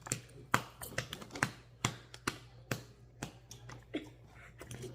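Potato chips being crunched in the mouth, close to the microphone: a string of sharp, separate crunches about two a second.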